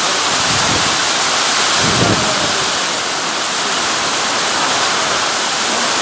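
Heavy rain pouring down in strong wind, a loud steady hiss, with a brief low gust about two seconds in.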